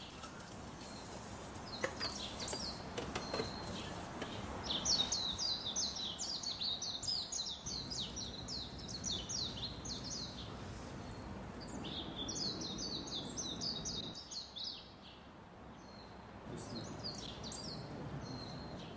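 Small birds chirping in quick, repeated high twitters that come in bouts of a few seconds each, over steady background noise.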